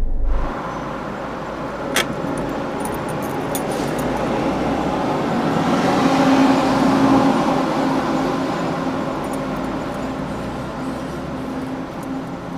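Road and tyre noise of a car driving, heard through a dash cam, swelling about six to seven seconds in and then easing off. A single sharp click comes about two seconds in.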